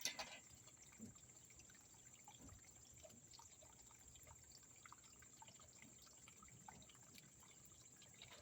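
Faint dripping and trickling of water, with scattered small drips and a steady thin high tone behind it. A short clatter comes right at the start.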